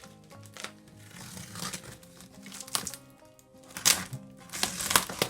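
Background music with irregular crinkling and crackling, as of wrapping or packaging being handled and crumpled.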